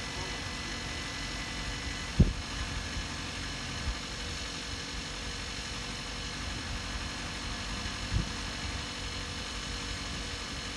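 Steady low engine and road rumble heard inside a moving car, with a sharp thump a couple of seconds in and a softer one near the end.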